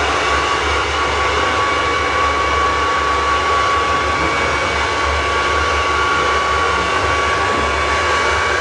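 Handheld hair dryer running steadily: a constant rush of air with a steady high whine.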